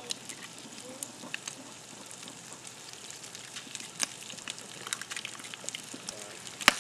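Sausage and eggs frying in a skillet over a wood fire: a steady sizzle full of small crackles and pops. One sharp click stands out near the end.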